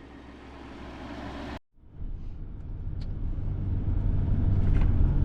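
Vehicle driving, a steady low engine and road rumble, in two abruptly cut pieces: a quieter one, then after a brief gap a louder one that slowly builds.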